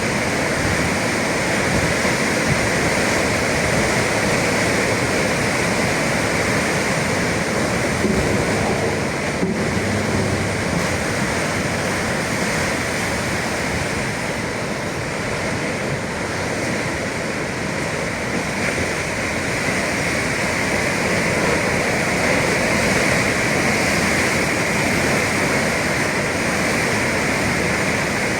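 Sea waves and surf making a steady, loud rushing with little rise and fall.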